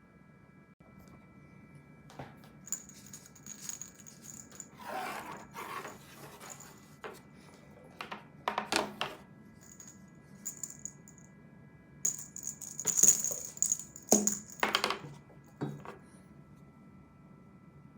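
Small metal bell on a cat toy jingling in irregular bursts, mixed with rustling and light knocks of a cat at play, loudest about two thirds of the way in.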